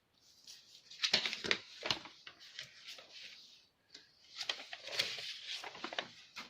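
Sheets of paper rustling and scraping in two spells, with several sharp crinkles, as paper pattern pieces are handled and drawn around on a tabletop.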